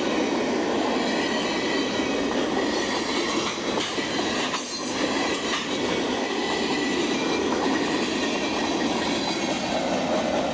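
Covered hopper cars of a BNSF freight train rolling past through a grade crossing. There is a steady, loud rolling noise of wheels on rail, with a faint steady high tone running through it.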